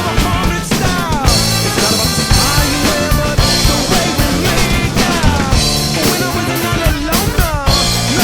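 A drum kit played to loud rock-style backing music, with kick, snare and rimshot hits over steady bass notes. Falling, sliding tones recur every couple of seconds.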